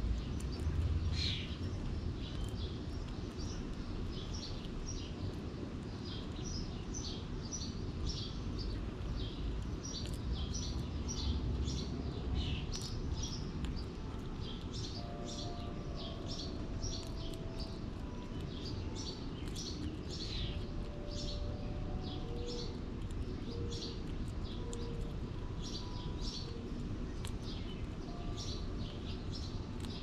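Small birds chirping and tweeting in quick short calls, several a second at times, over a steady low background rumble.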